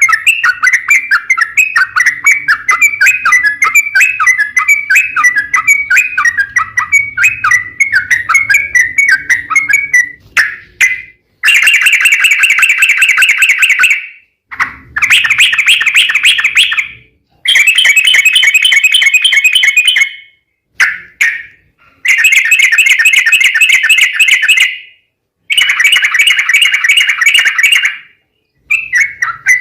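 Yellow-vented bulbul (trucukan) singing long, rapid chattering 'ropel' phrases. The first ten seconds are an unbroken run of quick notes; after that the song comes in dense phrases of two to three seconds, each starting and stopping abruptly with short silences between.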